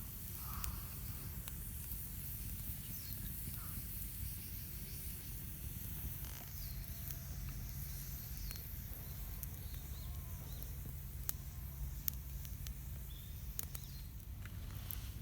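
Quiet outdoor ambience: a steady low rumble and high hiss, a few faint chirps, and an occasional sharp click.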